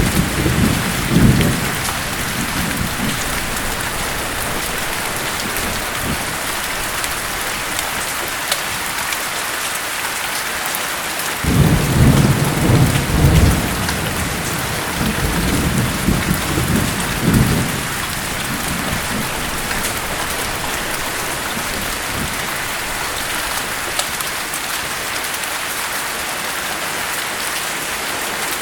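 Steady heavy rain falling, with rolling thunder rumbling at the very start and again in a longer roll about twelve seconds in that fades by eighteen seconds.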